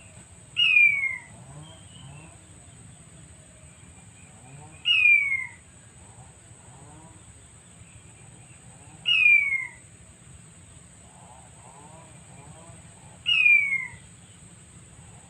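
Recorded male quail call played back as a lure, a sharp falling whistle repeated four times at even spacing, about four seconds apart.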